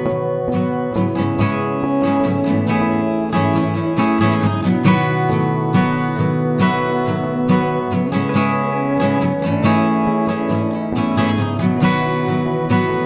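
Background music: strummed acoustic guitar playing a steady chord rhythm.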